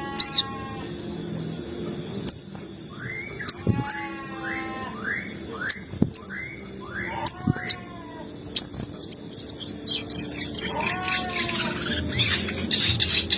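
Sogon bird calling: series of short chirps that slide down in pitch, given in quick runs, with sharp high clicks scattered between them. About ten seconds in, a hissing, rustling noise builds up under the calls.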